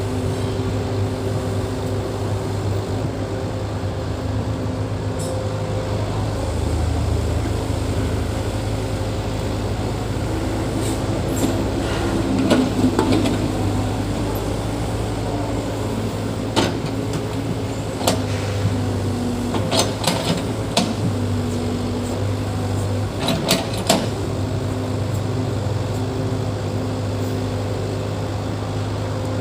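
Diesel engine of heavy earthmoving machinery running steadily, with a louder swell partway through and several sharp knocks in the second half.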